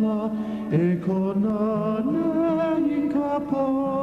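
A solo voice chanting, holding long notes with a wavering pitch and stepping between a few pitches.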